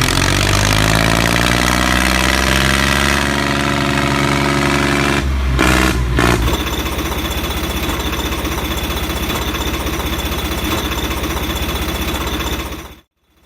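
An engine running. Its pitch glides and then settles over the first few seconds and breaks off briefly about five seconds in. It then runs on as a steady, rough chugging sound until it cuts off suddenly at the very end.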